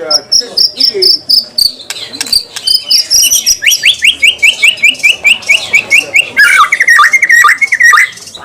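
Songbird singing a loud, fast, sharp song: repeated high piercing notes, then from about the middle a rapid run of short down-slurred notes, about five a second, ending in a lower stuttering trill near the end.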